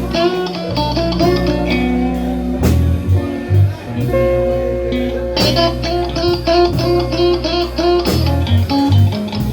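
Live blues band playing an instrumental break between verses: guitar lines over a steady bass and drums, with a sharp drum or cymbal hit roughly every two and a half seconds.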